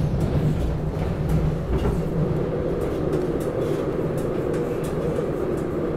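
Interior ride noise of a SEPTA Regional Rail electric passenger car running on the track: a steady low rumble with faint light clicks, heard from inside the car.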